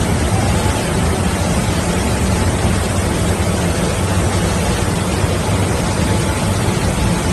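Tunnel car wash machine running: a steady rush of noise over a low motor hum.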